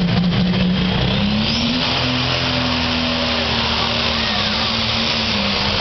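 Pulling tractor's engine running hard under load. Its pitch rises about a second in, then holds high and steady.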